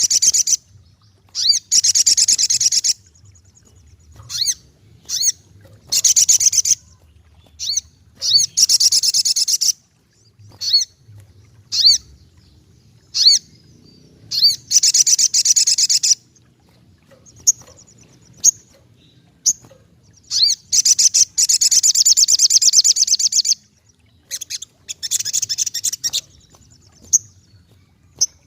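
Sogok ontong (spiderhunter) singing: loud, high bursts of rapid trilled notes lasting a second or two, alternating with single sharp chips.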